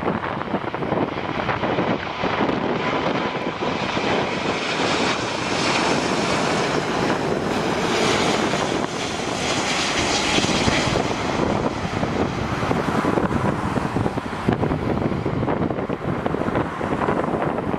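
Jet airliner's engines as it passes, a steady roar whose higher hiss swells to its loudest about halfway through, then eases off.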